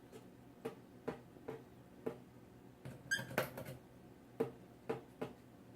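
Cockatiels moving about and investigating objects: irregular light taps and scratches from their feet and beaks, with a quick cluster of them about three seconds in.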